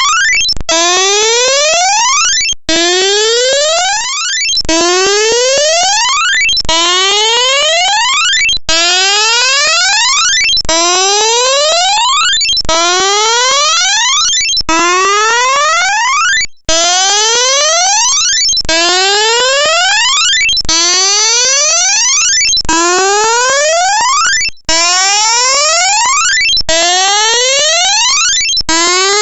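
Loud electronic tone sweeping upward in pitch, repeating about every two seconds in a steady whooping cycle, like a synthesized alarm or music loop.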